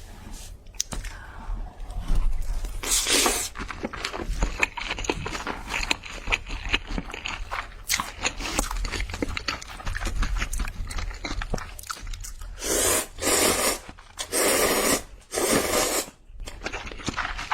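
Close-miked eating of fried chicken: crunching bites and chewing, with many short crunchy clicks. Four longer noisy stretches of about half a second to a second each come once early on and three times near the end.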